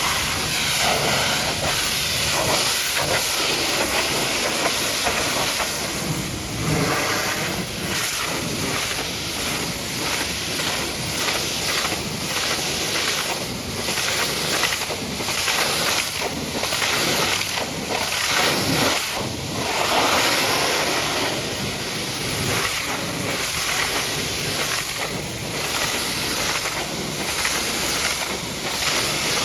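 High-pressure washer jet spraying water onto a truck, a loud continuous hiss that swells and dips in strength.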